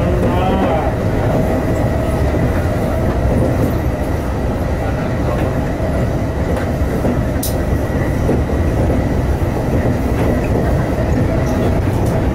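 Electric commuter train running at speed, heard from inside the car: a steady rumble of wheels on rail with a faint steady whine, and a single sharp click about halfway through.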